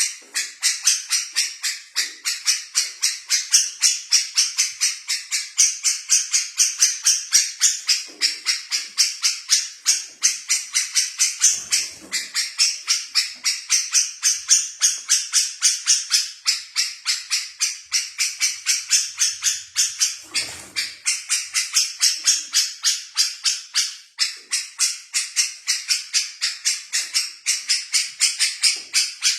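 Small birds chirping in an unbroken string of sharp, evenly spaced notes, several a second, high-pitched.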